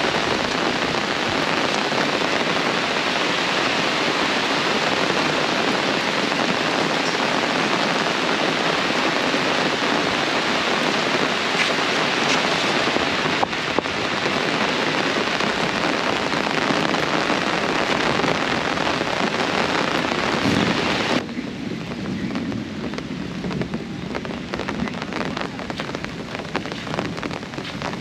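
Heavy tropical rain pouring down in a steady, dense hiss. About three-quarters of the way through, the sound drops suddenly to a quieter, patchier patter of separate drops.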